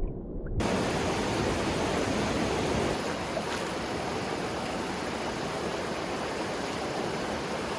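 Mountain stream running high and fast, a steady rush of water. It is muffled to a low rumble for about the first half second, then comes in full.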